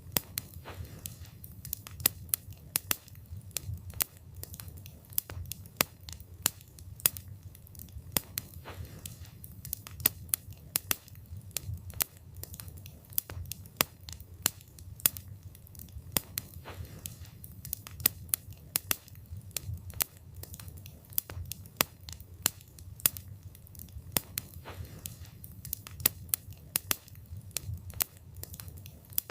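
Wood fire burning, with irregular sharp crackles and pops of the burning wood, several a second, over a steady low rumble of the flames.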